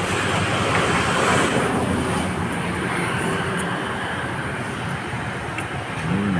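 Steady vehicle or traffic noise, with a low hum that swoops up and back down near the end.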